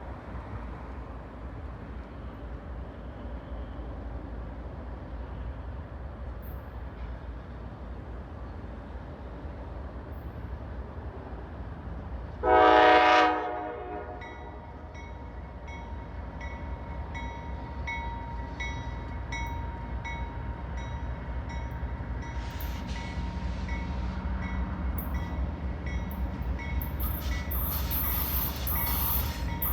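A CSX freight train's diesel locomotives approaching with a steady low rumble. About halfway through, the locomotive horn gives one short blast. A bell then rings steadily, and near the end the train grows louder as it draws close.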